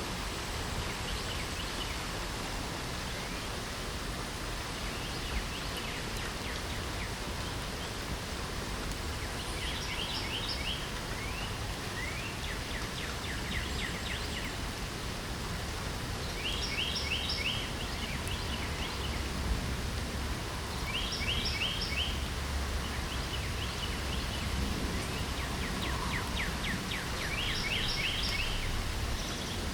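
Steady hiss of light rain, with a songbird singing short phrases of rapid repeated notes every few seconds.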